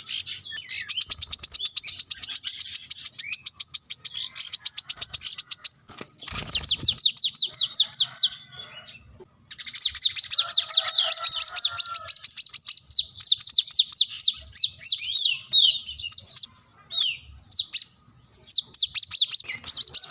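Sunbird (kolibri kelapa) singing long, fast runs of high, thin chirps, many to the second, broken by short pauses. There is a brief low thud about six seconds in.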